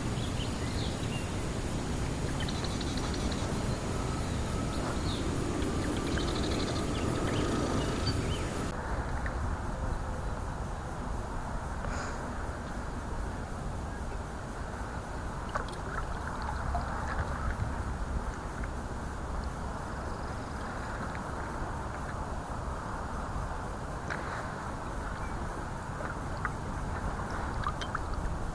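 Steady outdoor noise of wind and water, with a few short faint calls in the first eight seconds. About nine seconds in, the sound abruptly loses its high end and grows duller.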